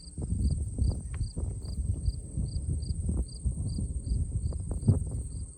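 Summer insects calling: a steady high buzz with an even chirp repeating about two and a half times a second. Under them runs a louder, irregular low rumble with scattered knocks.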